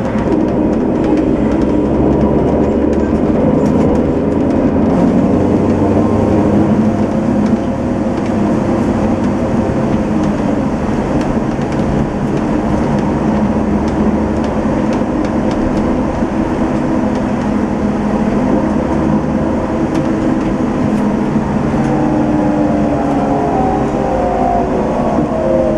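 Setra S 431 DT-L double-decker coach with a manual gearbox driving, its diesel engine running steadily under way; near the end the engine pitch rises as the bus accelerates.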